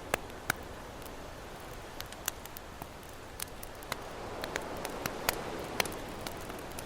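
Campfire crackling, with sharp irregular pops and snaps over a steady wash of ocean waves.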